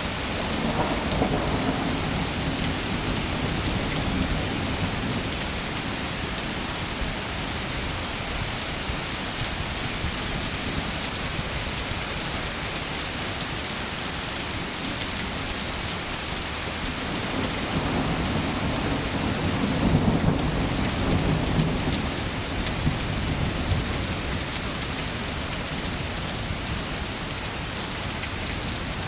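Steady heavy rain hissing, with low rolling thunder rumbling near the start and again about two-thirds of the way through.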